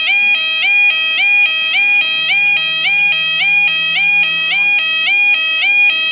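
UK level crossing yodel alarm sounding its two-tone warble, flipping between a lower and a higher pitch about one and a half times a second. This is the warning that a train is approaching and the barriers are lowering.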